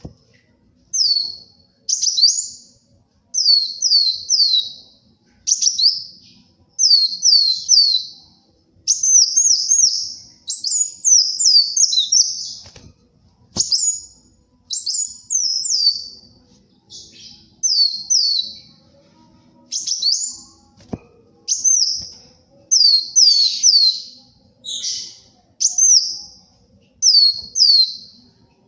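Kolibri wulung (sunbird) singing: short bursty phrases of two to four quick, high, down-slurred chirps, repeated every second or two.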